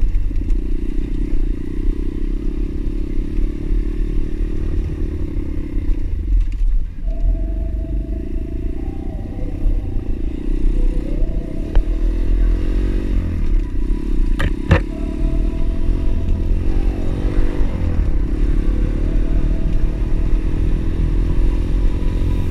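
Pit bike engine running under way off-road, its revs rising and falling, with rattling from the bike and one sharp knock about two thirds of the way in.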